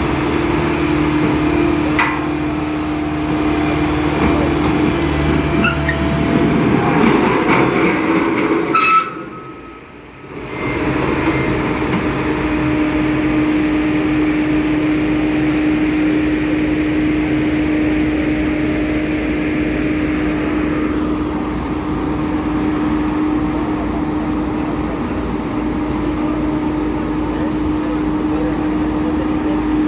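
Diesel engine of a Bomag vibratory road roller running steadily under load with a constant hum, while the roller works its way up onto a truck. The sound drops away sharply for about a second some nine seconds in, then carries on evenly.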